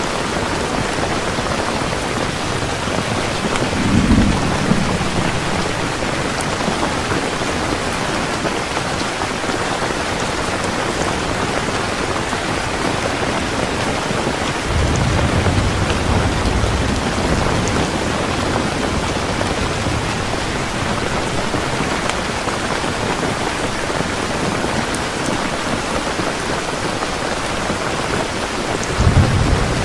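Heavy rain pouring steadily in a thunderstorm. Low rumbles of thunder come about four seconds in, again for a couple of seconds around the middle, and once more near the end.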